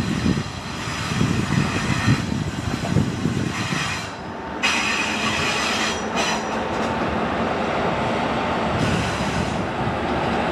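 A train passing: rhythmic clatter of wheels over the rail joints for the first few seconds, then a steadier running noise with a high squeal from about halfway through.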